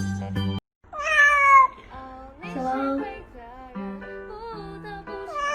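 A domestic cat's loud meow, falling in pitch, about a second in, followed by music with held notes.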